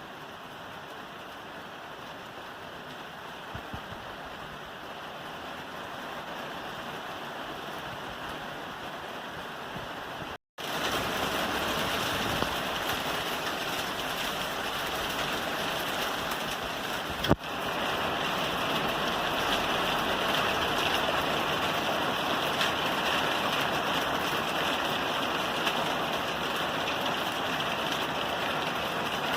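Steady rain falling on a roof, an even hiss of drops. About ten seconds in it cuts out for an instant and comes back louder. Near the middle there is one sharp click.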